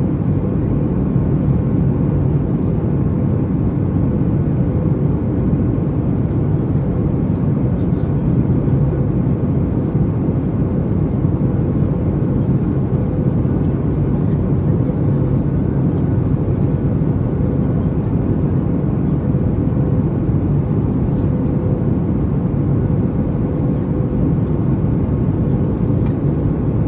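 Steady cabin noise of a Boeing 737 MAX in its climb: an even rush of engine and airflow noise, mostly low, with a faint steady hum over it.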